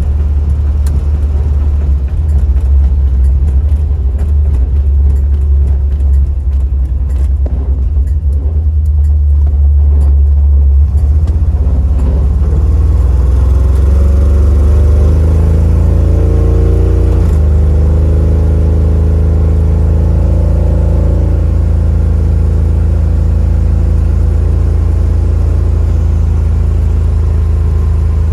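1968 Chevrolet Impala driving with a heavy low rumble. About twelve seconds in, the engine pitch climbs as the car accelerates, dips once near the middle as it shifts gear, climbs again, then settles to a steady cruise.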